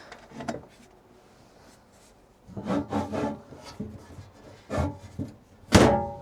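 A removable panel being handled and set in place: rubbing and scraping with a few knocks, the loudest a sharp knock with a short ring near the end.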